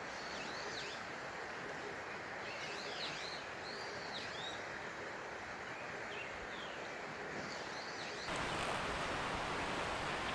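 A small bird chirping in short, arched notes, several times over a steady outdoor hiss. About eight seconds in, the background changes suddenly to a louder, brighter hiss.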